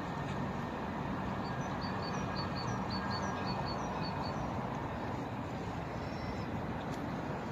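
Steady outdoor background noise with a low hum, like distant traffic. From about a second and a half in, a small bird chirps a quick run of high notes, about four a second, for a couple of seconds.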